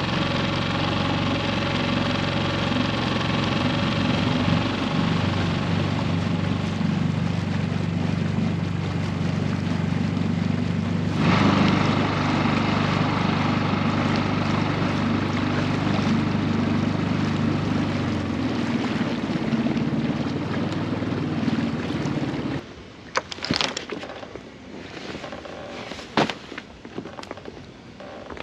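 Small outboard motor on a dinghy running steadily under way, cutting off about 22 seconds in; a few knocks follow.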